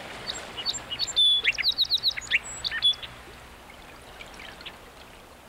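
Small songbird chirping in a quick series of high notes during the first three seconds, then a faint outdoor hush.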